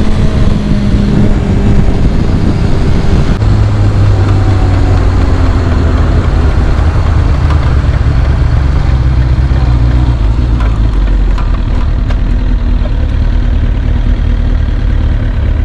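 Carbureted Kawasaki ZX-6R inline-four motorcycle engine running, its pitch dropping in the first few seconds and then settling into a steady low idle-like note over road and wind rumble. The rider blames its poor running on carburettors that need cleaning.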